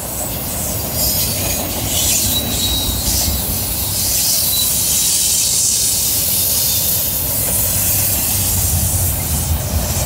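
Freight train cars rolling past close by, autoracks and double-stack container well cars: a steady rumble of steel wheels on the rails under a strong high hiss, with a faint thin squeal about two to three seconds in.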